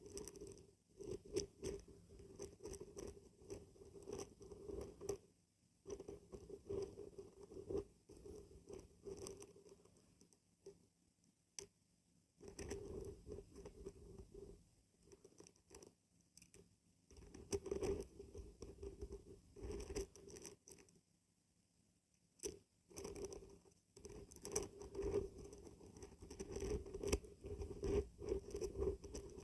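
Dried beans and barberries being shaken, a dense rattling patter of many small hard pieces. It comes in several bouts separated by short pauses.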